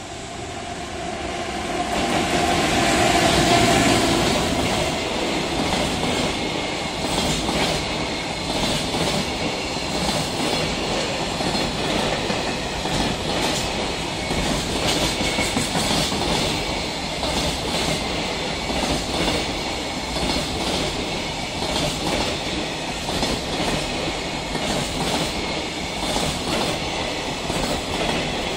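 A JR Freight EF210 electric locomotive hauling a freight train passes at speed, loudest about three to four seconds in. A long train of container wagons then rolls by with a steady clickety-clack of wheels over the rail joints.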